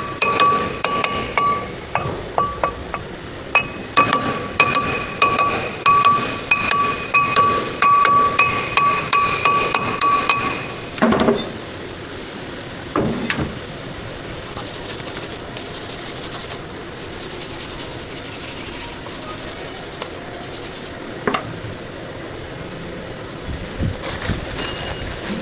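Hammer blows on a ringing metal part, about one or two strikes a second for roughly ten seconds, each leaving the same bell-like ring. A few scattered knocks and metal clinks follow.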